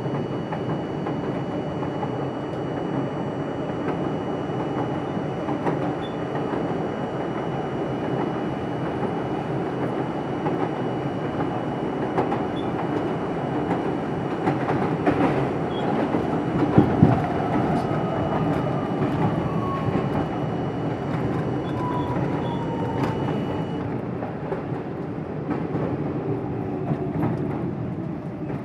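R42 subway car running on the rails, heard from inside the car: a steady rumble of wheels on track with scattered clicks from rail joints. In the second half a whine falls in pitch as the train slows for the next station.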